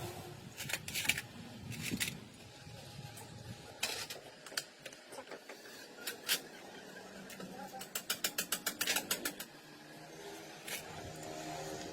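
Scattered clicks and knocks of tools and metal parts being handled, with a quick run of a dozen or so rapid clicks about eight seconds in.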